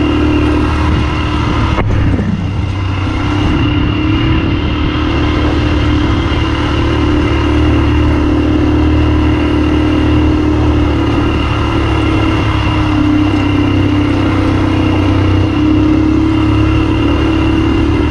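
ATV engine running steadily while riding, with a strong low rumble and a single knock about two seconds in.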